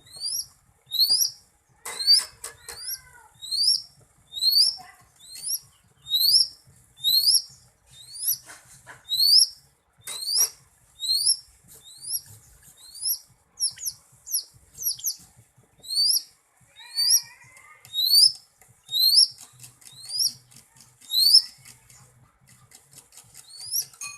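Greater green leafbird (cucak ijo) singing: a sharp, rising whistled note repeated about once a second, each with a higher overtone above it, and a few fainter lower warbles in between.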